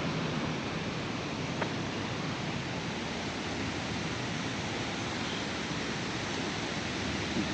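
Steady, even wash of outdoor street ambience, a hiss with no distinct events, broken only by one faint click about a second and a half in.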